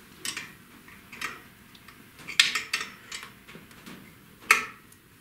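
Irregular sharp metallic clicks and taps of drill press parts being handled and fitted by hand, the loudest about halfway through and another near the end.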